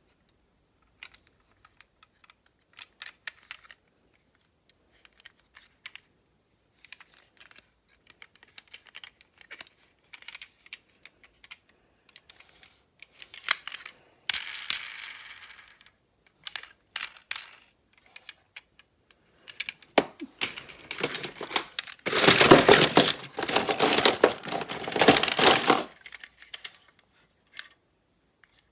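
Scattered light clicks and taps of small hard objects being handled, with a louder stretch of rustling, clattering noise about twenty-two seconds in that lasts some four seconds.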